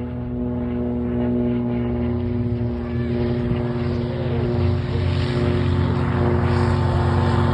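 Cessna 182's piston engine and propeller droning steadily at an even pitch, slowly growing louder.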